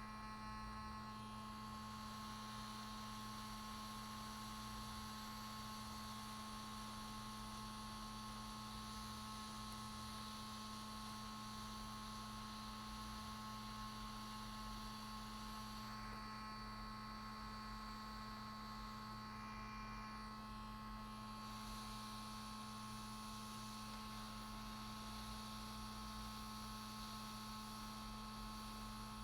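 Steady electrical hum with a few constant higher whining tones over a faint hiss, unchanging throughout.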